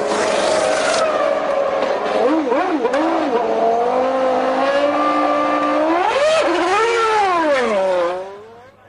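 Formula One car's V10 engine running at low revs, blipped quickly up and down a few times about two to three seconds in, then revved up and back down before the sound drops away near the end.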